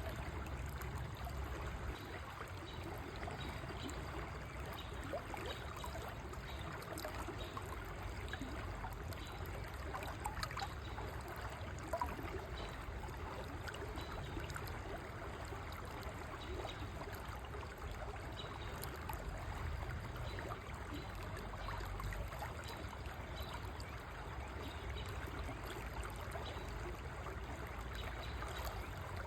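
River water flowing and trickling steadily over stones, with a couple of brief louder splashes about a third of the way in.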